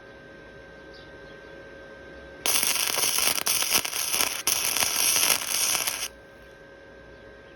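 Welding arc crackling steadily for about three and a half seconds, starting a couple of seconds in and cutting off sharply, as a bead is laid to fill cracks in a motorcycle frame. Before and after it, only a faint steady hum.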